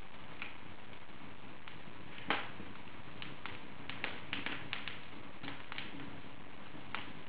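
Wood fire burning in an open fireplace: a steady soft hiss with irregular crackles and pops, the loudest about two seconds in and a quick run of them around the middle.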